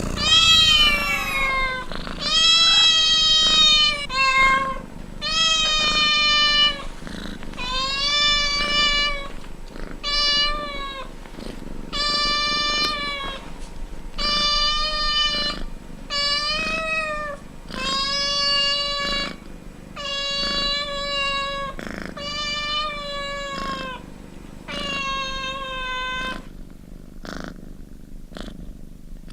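A cat meowing over and over, about one drawn-out, even-pitched meow every two seconds. Near the end the meows stop and quieter purring takes over.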